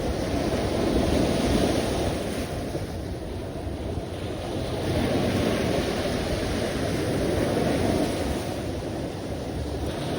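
Ocean surf: waves breaking and washing in, the rush swelling and easing every few seconds.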